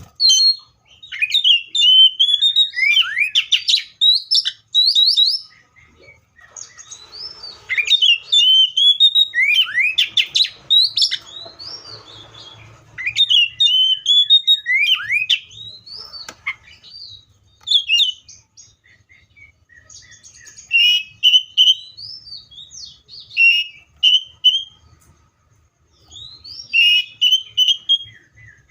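A magpie-robin (kacer, Copsychus) singing loudly: varied phrases of quick rising and falling whistles and chirps, in bouts broken by short pauses.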